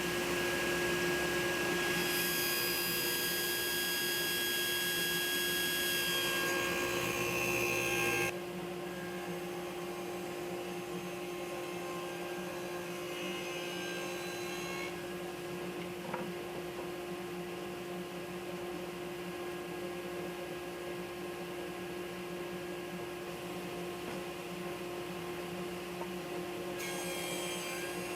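Steady hum of a workshop power tool or machine motor running, with no cutting strokes heard; the sound changes abruptly and drops in level about eight seconds in.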